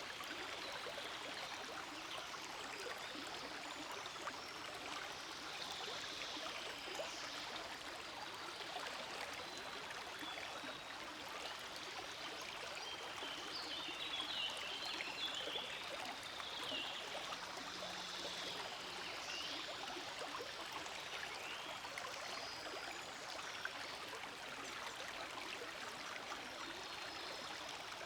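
Forest stream flowing steadily over stones, with an even rush of water and light gurgling.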